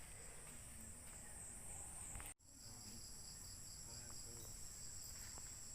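Faint, steady high-pitched insect chorus. The buzz breaks off for an instant about two seconds in, then continues with a slightly different pitch pattern.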